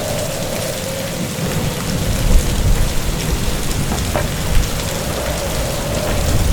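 Heavy typhoon rain pouring down, with a low rumble of thunder building about two seconds in.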